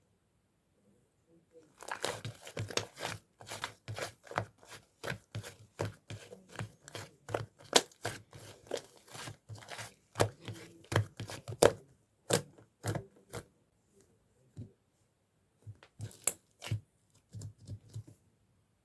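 Clay slime squished and pulled by hand, making a dense run of sticky pops and crackles that starts about two seconds in and thins out to scattered pops near the end.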